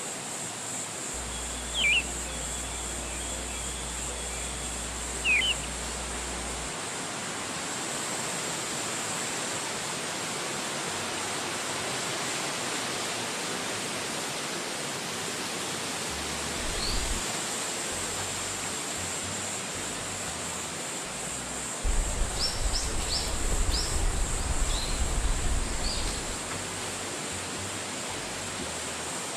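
Steady outdoor wind, a constant even rush with a high hiss over it. A few bird chirps come through: two short falling calls in the first six seconds, and a run of higher chirps later on, while low gusty rumbling rises for a few seconds.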